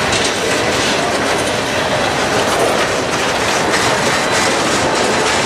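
Freight cars rolling past close by, steel wheels clacking over the rail joints over a steady rolling noise.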